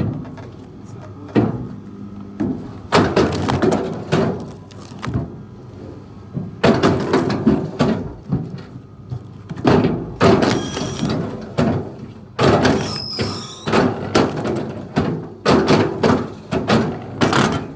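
An irregular series of knocks and thuds, with a brief high squeal a little past the middle.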